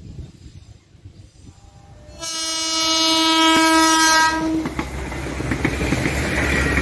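A passenger train's horn sounds one steady blast of about two seconds, then the train passes close by with a heavy rumble and clattering wheels. Before the horn there is only a faint low rumble.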